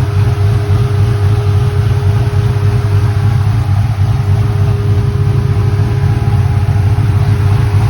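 Chevy Malibu's engine idling steadily with a loud, even low rumble, its electric cooling fans running.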